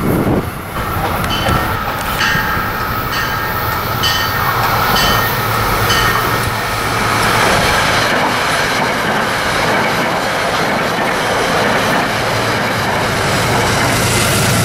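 Passenger train passing on the rails. In the first few seconds its wheels click over the rail joints about once a second, then a steady rushing rumble.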